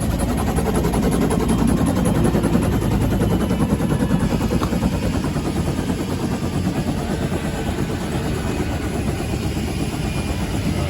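UH-1H Huey helicopter's turbine engine and two-bladed main rotor running steadily with a fast, even pulsing. It grows slightly quieter in the second half.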